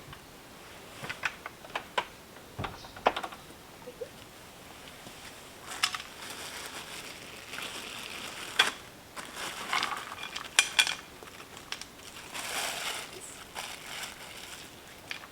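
Irregular clicks, knocks and rustles of gear being handled and moved about, with a few sharper knocks scattered through and short stretches of rustling.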